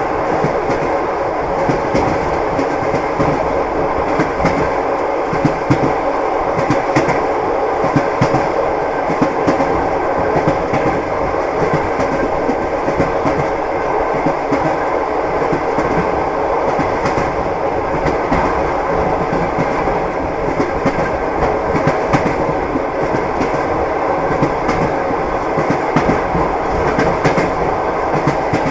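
Train wheels clacking over rail joints, heard from inside a moving carriage: a steady rumble with repeated clicks throughout.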